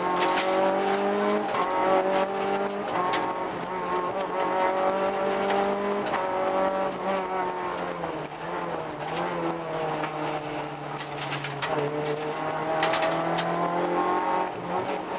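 Rally car engine heard from inside the cabin, driven hard along a stage. Its note climbs and then drops several times as it changes gear, brakes and accelerates, with a few sharp cracks.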